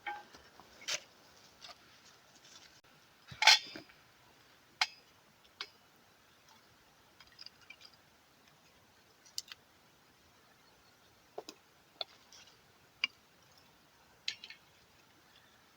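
Scattered light clinks and knocks of small hard objects being handled, about a dozen separate sharp sounds with quiet gaps between them, the loudest about three and a half seconds in.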